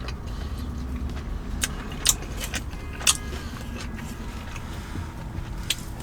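A few short crinkles and clicks as a messy sandwich and its paper wrapper are handled, over a steady low hum.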